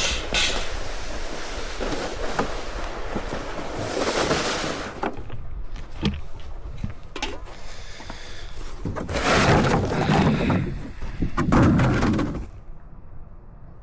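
Wind buffeting the microphone, with scattered crunches and knocks and two louder rushing surges, one a few seconds in and one longer one past the middle.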